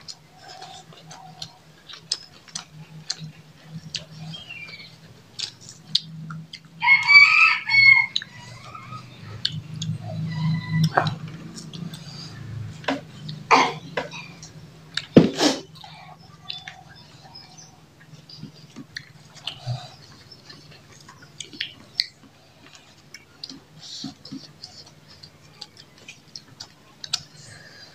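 Close-up mouth sounds of people eating by hand: chewing and lip smacks, with a few sharp clicks, over a steady low hum. A rooster crows once, loudly, about seven seconds in.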